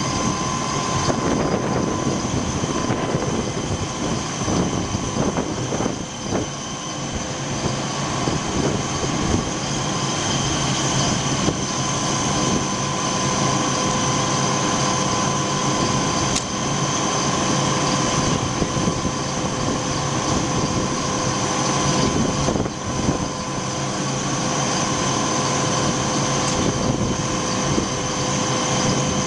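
Fire truck engine running steadily, with a steady whine over the low rumble.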